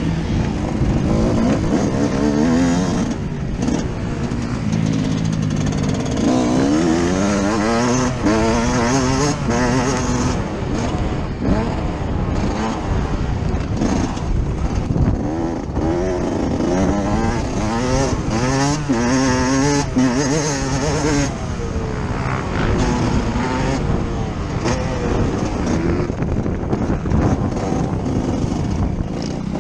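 Yamaha YZ125 single-cylinder two-stroke engine heard from onboard, revving hard and dropping back over and over as the bike is ridden round a motocross track, its pitch climbing and falling every second or two.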